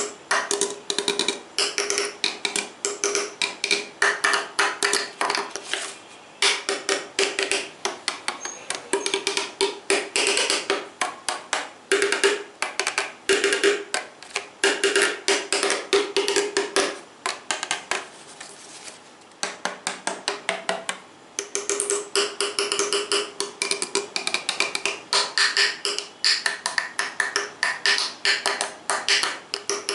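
Rapid tapping on hard objects, many sharp taps a second in quick flurries, with a faint ringing tone from the tapped object. The tapping drops away for a moment about two thirds of the way through, then picks up again.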